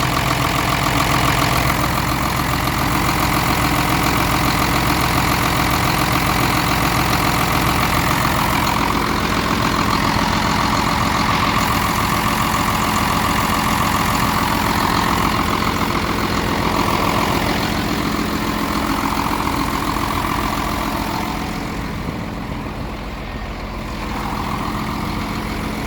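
Hino truck's diesel engine idling steadily with an even clatter, running smoothly and sounding healthy.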